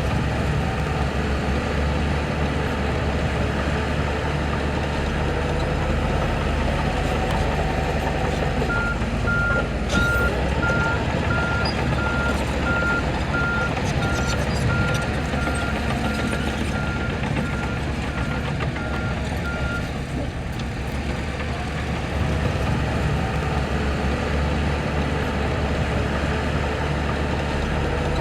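Heavy diesel construction machinery running steadily, with a reversing alarm beeping a little faster than once a second for about eleven seconds, starting about a third of the way in.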